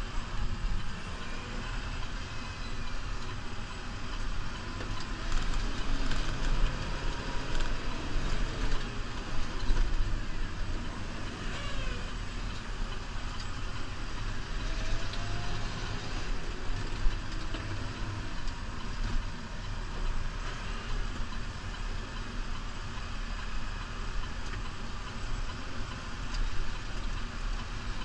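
New Holland Powerstar 75 tractor's diesel engine running steadily while plowing snow, the loudness swelling and easing as it works.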